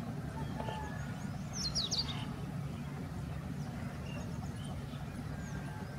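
A small bird gives a quick cluster of sharp, high chirps about two seconds in, with a few faint short notes later, over a steady low hum.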